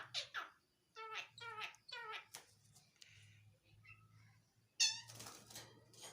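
A tame starling (jalak) calling: two quick runs of sharp, falling chirps in the first two and a half seconds, then a harsh rasping call about five seconds in.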